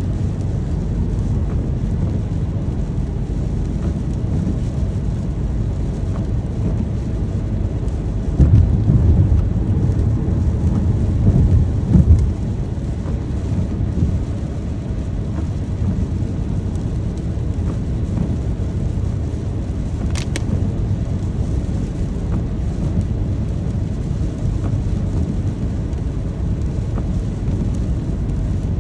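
Steady rain with a low rumbling undertone, and a louder roll of thunder lasting about four seconds from roughly eight seconds in.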